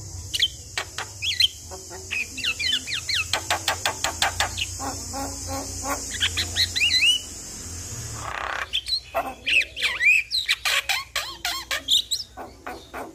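Javan myna (jalak kebo) singing: fast runs of dry clicking notes mixed with short whistled notes that swoop up and down, over a steady high hiss that stops about two-thirds of the way through.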